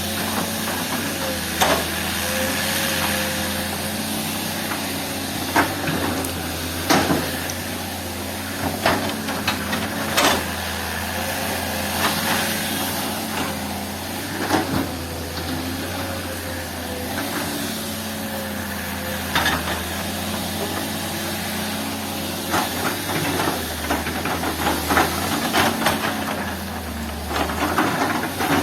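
Heavy earthmoving machine's engine running steadily, with irregular sharp clanks and knocks of metal and rock as it works.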